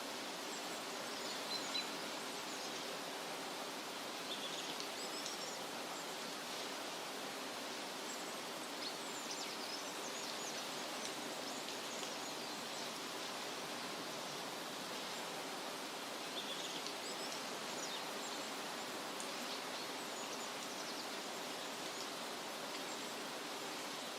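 Forest ambience: a steady rushing hiss, like wind in leaves or distant water, with faint, brief bird chirps scattered throughout.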